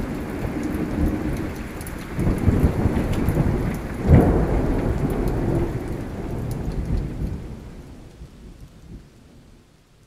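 Rain with thunder rumbling, the loudest rumble starting suddenly about four seconds in. The storm fades away to silence over the last couple of seconds.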